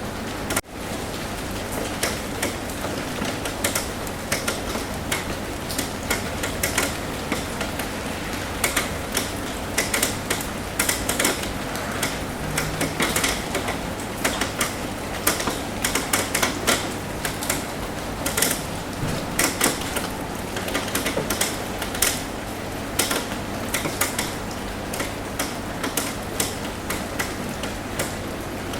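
Rain falling on a roof: a steady patter with many irregular, sharp individual drop taps. There is a brief cut-out just after the start.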